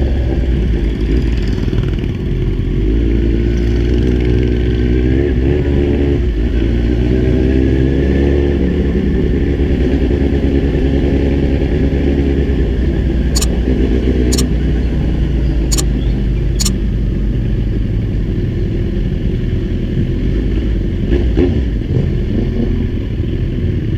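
Kawasaki Z1000 inline-four engine running under way, its pitch rising and falling with the throttle and gear changes in the first half, over a steady low rumble. Four sharp clicks a little past the middle.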